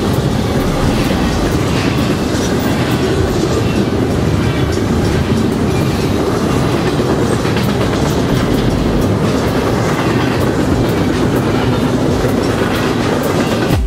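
A train rolling past close by: a steady loud rumble of wheels on the rails with many sharp clicks from the wheels and rail cars.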